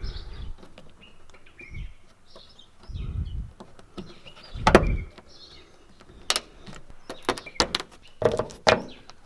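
Plastic trim clips being pressed by hand into a car's roof and headliner: dull thumps and a run of sharp clicks and knocks, thickest near the end. Birds chirp in the background.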